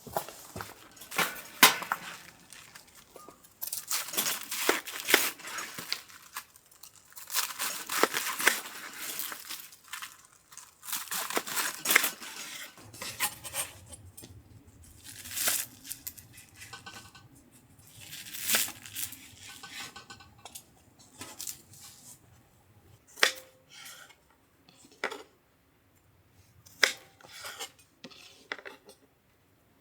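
Handling noises in uneven bursts: rustling and tearing, with light clinks and sharp knocks, denser in the first half and thinning to scattered single knocks later.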